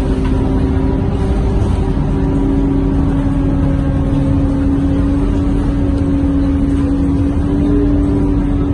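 Scania K230UB city bus heard from inside the cabin while under way: a steady engine and drivetrain drone, a low rumble with a held whine over it.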